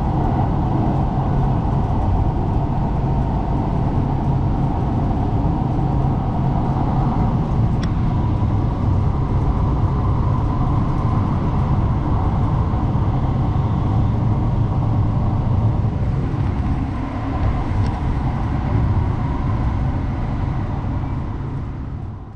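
Expo Line light-rail train running: a steady, loud, low running noise with two faint ticks, fading out near the end.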